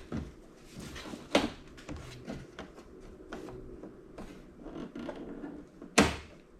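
Hands and tools working on a small flat-screen TV's plastic casing during disassembly: scattered clicks, taps and knocks, with a sharper knock about a second and a half in and another near the end.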